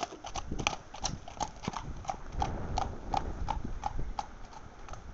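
Hooves of a ridden horse clip-clopping in a steady, even rhythm of about three hoofbeats a second, with wind rumbling on the microphone.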